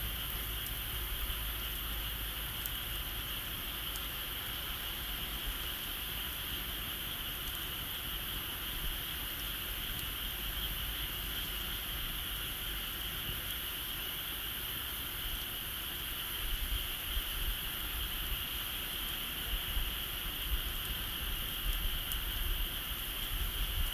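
Steady outdoor ambience: a continuous high-pitched chorus of calling insects or frogs, with a few faint crackles from a bonfire and a low wind rumble on the microphone that grows stronger about two-thirds of the way through.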